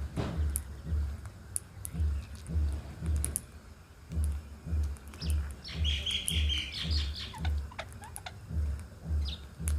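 Small birds chirping: short, high calls scattered through, with a busier run of twittering about six seconds in. Underneath runs a steady low thump, about two beats a second, like the kick drum of a music track.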